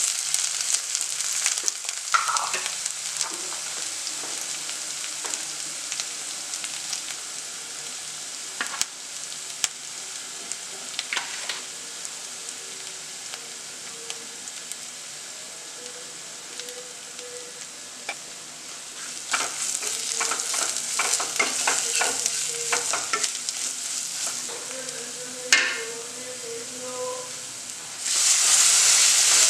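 Onions frying in hot oil in a non-stick kadai, sizzling steadily, while a spatula scrapes and stirs them around the pan in bursts. Near the end, grated tomato poured into the hot pan sets off a sudden, much louder sizzle.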